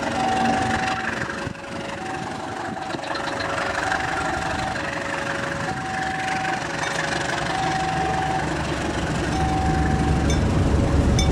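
A diesel train locomotive rumbling, its low engine noise growing louder near the end, while a two-tone electronic warning alarm alternates between a high and a low tone, each lasting about a second, typical of a railway level crossing signal.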